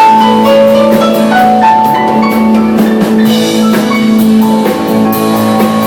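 Live rock band playing an instrumental passage between sung verses: held guitar and keyboard notes over a steady drum kit beat with cymbal strokes.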